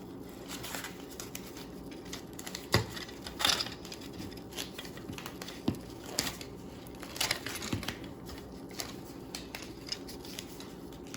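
Wet fiberglass repair wrap being wound around a fishing pole by hand: irregular rustling and crinkling with small clicks and knocks, the loudest a couple of knocks about three seconds in.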